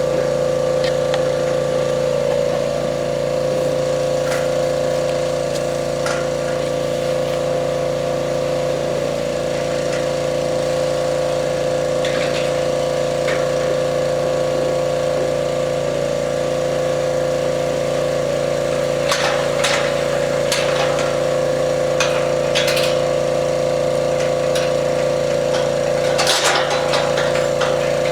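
A steady mechanical hum from a running motor, holding one pitch throughout, with a few sharp knocks in the last third.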